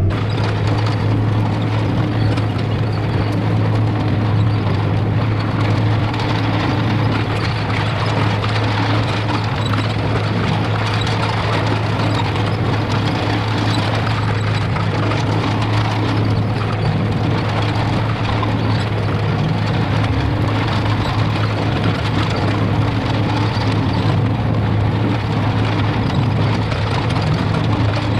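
Case IH Steiger 9370 tractor's diesel engine running steadily, a constant low drone.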